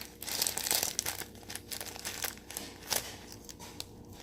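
Plastic packaging crinkling and rustling as it is handled, densest in the first second, then thinning to scattered light crackles.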